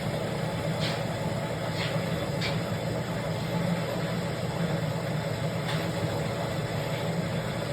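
A machine motor running steadily with a low hum, with a few faint ticks over it.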